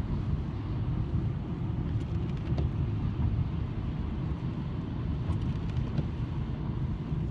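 Steady low rumble of a car's engine and road noise heard from inside the cabin while creeping along in slow traffic, with a few faint clicks.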